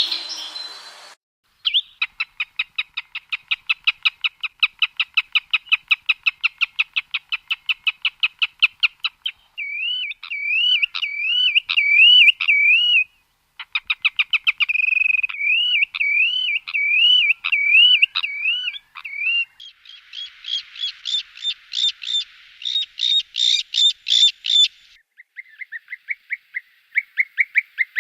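Bird song recordings played one after another, with short breaks between them. First comes a long run of quick repeated notes, about six a second. Then wavering, rising-and-falling trilled whistles, a higher chattering series, and near the end a lower run of rapid notes.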